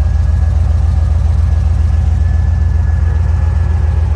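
A 1999 Camaro SS's 5.7-litre V8, with a mild cam, long-tube headers and Flowmaster exhaust, idling steadily with an even low pulsing beat.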